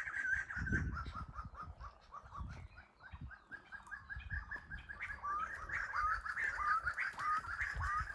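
Small birds chirping in quick, overlapping notes, several a second. From about five seconds in, some calls turn into short hooked notes that dip and rise. Low rumbling bursts sit underneath in the first few seconds.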